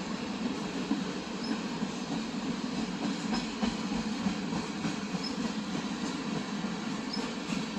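CPKC freight train rolling past: a steady rumble of wheels on rail, with faint high ticks about every two seconds.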